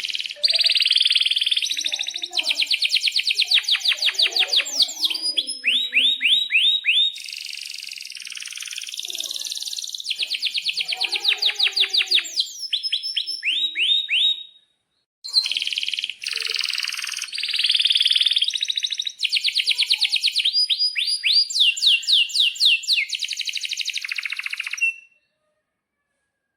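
Domestic canary singing two long song phrases of fast trills and rolls, with a brief break about halfway through; the song stops near the end.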